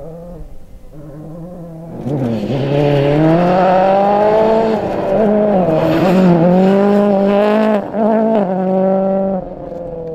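Rally car engine running at speed, quieter for the first two seconds, then loud under hard acceleration. Its pitch climbs and drops back several times as it changes gear.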